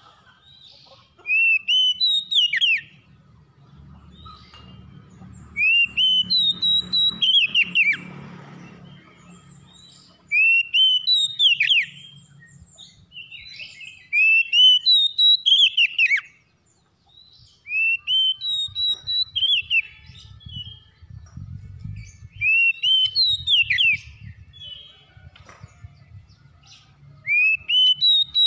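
A songbird singing the same loud whistled phrase over and over, about once every four seconds: each phrase climbs, then drops in a quick run of notes. Fainter calls from other birds can be heard between the phrases.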